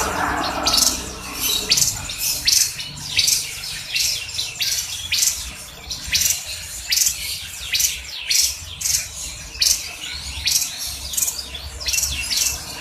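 Grey-headed babbler (tepus kepala abu) calling: a continuous run of short, sharp, high chirps, about two a second.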